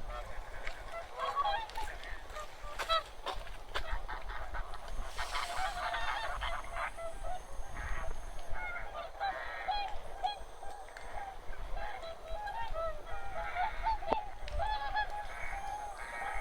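A large flock of wild geese calling together: a continuous chorus of short, overlapping honking calls.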